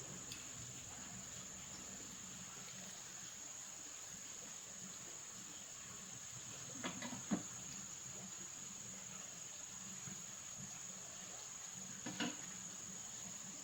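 Quiet steady background with a continuous high-pitched whine and a low hum, broken by a few small knocks about seven seconds in and again near the end.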